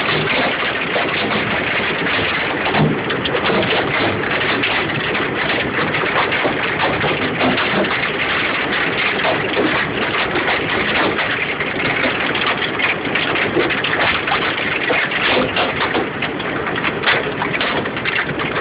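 Golf-ball-sized hailstones and heavy rain pelting down in a hailstorm: a dense, steady hiss of falling rain with many sharp knocks of hailstones striking surfaces.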